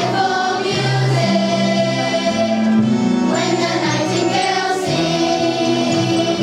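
A children's choir singing with musical accompaniment in long, held notes.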